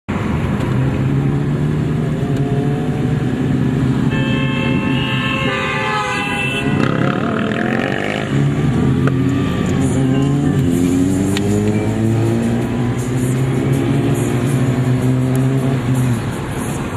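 Motorcycle engines running steadily, with a vehicle horn sounding from about four to six and a half seconds in. The engine note drops away about a second before the end.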